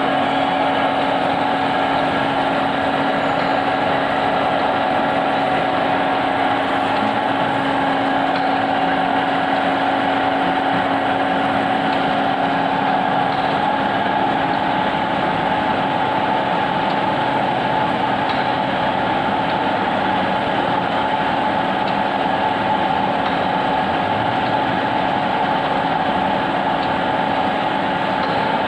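Ravensburg L-500 facing lathe running at a steady speed, driven by its 11.5 kW Siemens electric motor: an even machine hum with a constant whine.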